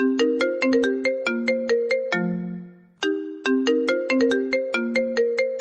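An iPhone ringtone playing: a quick melody of bright, sharply struck notes. The same short phrase runs twice, the first time ending on a low note that dies away about three seconds in.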